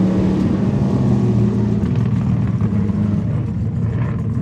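Race car engines running hard on a dirt circuit, their note holding steady and shifting in pitch every second or so.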